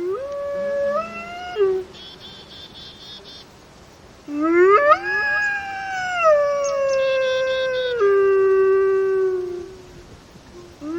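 Gray wolves howling: a short howl that rises in pitch, then after a pause a long howl that climbs and slowly slides down over about five seconds, and a new howl starting near the end. Faint rapid high chirping is heard twice between the howls.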